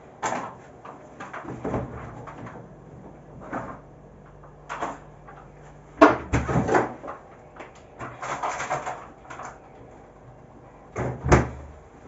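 Kitchen handling sounds: scattered knocks, clicks and rustles of things being moved and set down. There is a sharper knock about six seconds in and another near the end.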